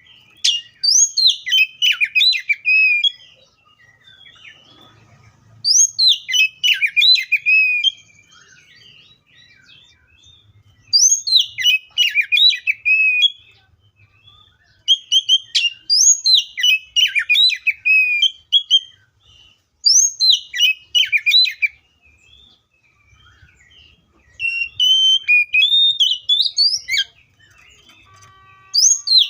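Oriental magpie-robin singing in six repeated phrases of fast, high whistled notes. Each phrase lasts about two to three seconds, with short pauses between them.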